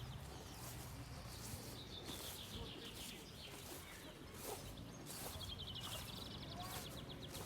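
Small songbird singing rapid high trills, one a couple of seconds in and another longer one past the middle, over a faint low hum.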